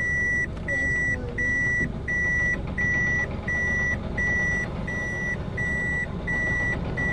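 Reversing beeper on a homemade truck sounding a steady high beep about three times every two seconds, over the truck's engine running low.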